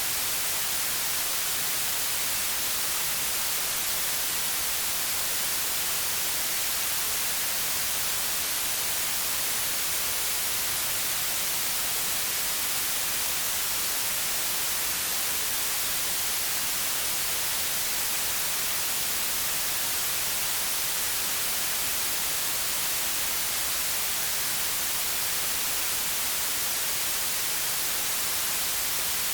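Steady white noise: an even, unchanging hiss, brightest at the top of the range.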